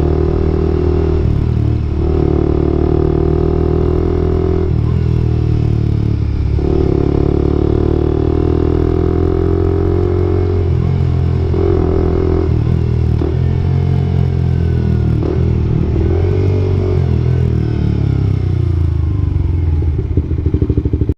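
Suzuki 125 cc single-cylinder motorcycle engine running through a replica Akrapovic-style exhaust. The engine note changes in steps with short breaks several times, then falls in pitch near the end before cutting off.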